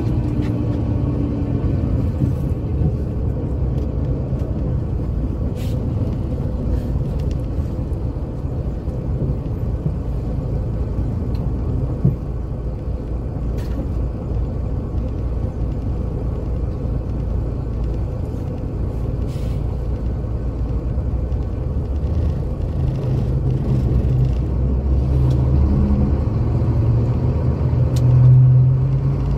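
Diesel engine of a 1984 Scania K82SR coach running under way: a steady low drone with occasional rattles and clicks. Near the end the revs rise as it accelerates.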